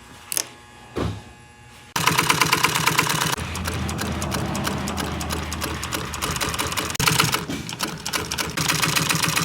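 Sewing machine running at speed, stitching upholstery, its needle going in a rapid, even clatter that starts about two seconds in.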